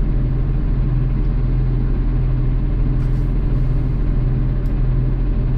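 Garbage truck's diesel engine idling with a steady low drone.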